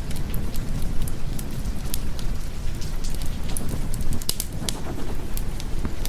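Steady rain with a low rumble underneath. Sharp crackles and pops of a wood fire are scattered throughout.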